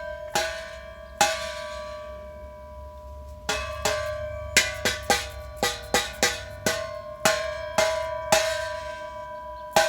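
A Vintage Speed exhaust struck about sixteen times, each hit ringing on like a bell in a clear, steady tone with higher overtones. The strikes come irregularly, a few at first and then a quick run in the middle. The ringing resonance is shown as proof of the exhaust's rattle and buzz.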